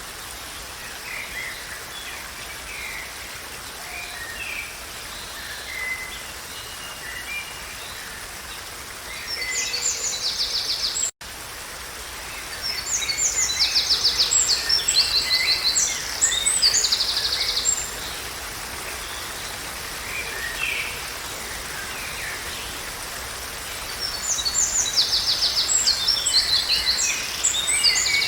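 Songbirds singing over a steady rushing background: scattered short high chirps, and three bouts of rapid, high, repeated-note trills, the longest about five seconds. The sound cuts out for an instant about eleven seconds in.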